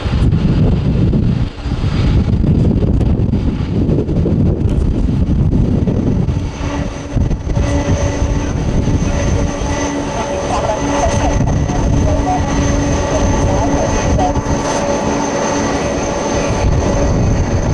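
Boeing 747-400 freighter's four jet engines running with a loud, deep rumble. Steady whining tones come in about six and a half seconds in.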